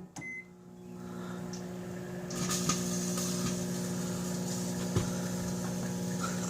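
Microwave oven beeps once as it is started, then runs with a steady hum. A hiss with faint crackles comes in about two seconds in, and there is a single sharp snap about five seconds in, from the metal toy car heating inside.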